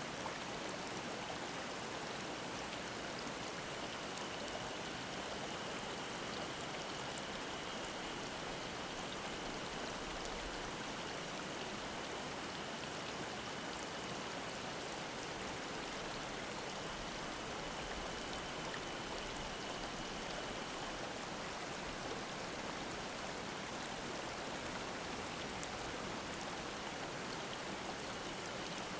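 Mountain stream babbling steadily over rocks, an even rush of water. A faint, high, steady cicada song sits above it, dropping away for a while and returning near the end.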